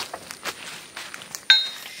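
A few light knocks, then about one and a half seconds in a single sharp metallic clink that rings briefly.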